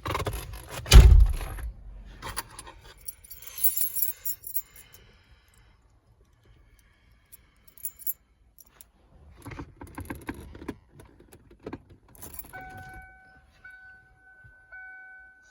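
Car keys jangling, with a heavy thump about a second in, inside a 1991 Ford Thunderbird; from about twelve seconds a steady electronic warning tone sounds, broken by brief gaps.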